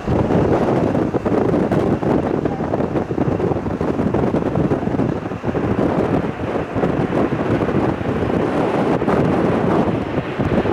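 Strong gusty wind buffeting the microphone: a loud, uneven rumble that rises and falls from moment to moment.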